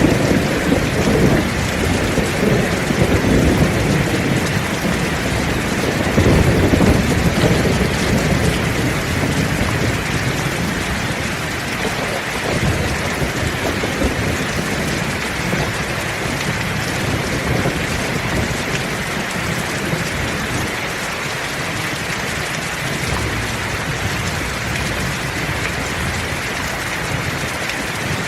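Heavy rain falling steadily, with a low rumble of thunder in the first half that fades away about halfway through.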